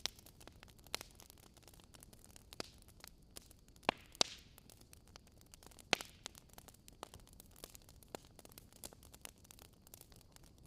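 Wood fire crackling: a constant soft hiss with irregular snaps and pops, the loudest three close together around four and six seconds in.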